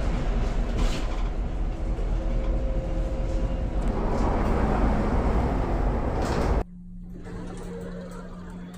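Running noise inside a moving bus or train: a steady, loud low rumble with some rattling. About two-thirds of the way through it cuts off suddenly, and a much quieter scene with a steady low hum follows.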